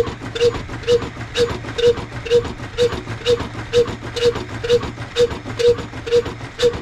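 Old Ruston-type oil diesel engine running at a steady slow beat, about two sharp knocks a second over a constant low hum, while driving a flour chakki.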